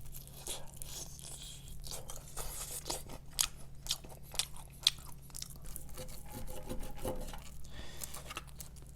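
Close-up chewing and crunching of fried chicken: repeated crisp crackles of a coating being bitten and chewed.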